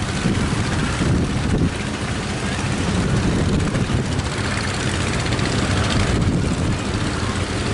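Boat engine running steadily, with a low drone under the roar of strong wind and surf at a river mouth.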